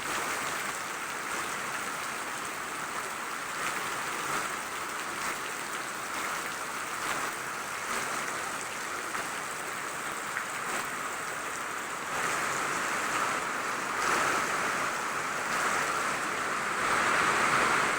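Steady rain falling, a continuous hiss that grows louder over the last six seconds.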